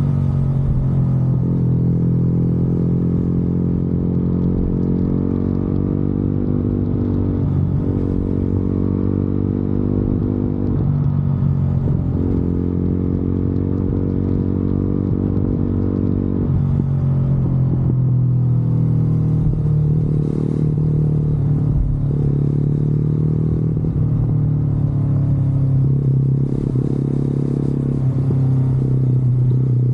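Motorcycle engine running steadily while riding, its pitch rising and dropping every few seconds with the throttle.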